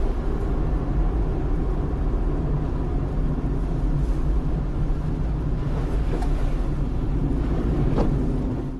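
Steady low outdoor rumble, with a couple of faint knocks about six and eight seconds in.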